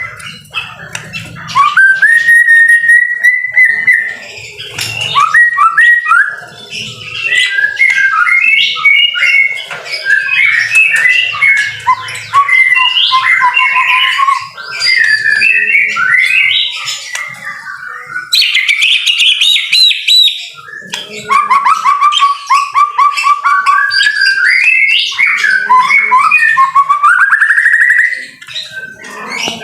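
White-rumped shama singing a long, varied song of clear whistles, pitch glides and rapid trills, broken by brief pauses.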